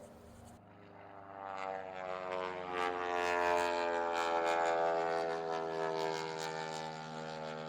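Aircraft flying over, a droning engine tone that swells to its loudest a few seconds in and drops slightly in pitch as it passes.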